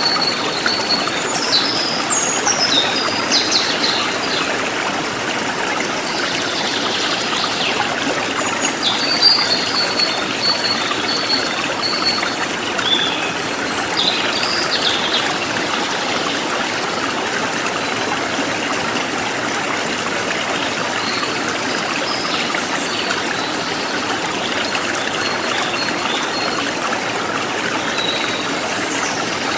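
A forest stream flowing steadily over stones, with birds chirping now and then, mostly in the first half.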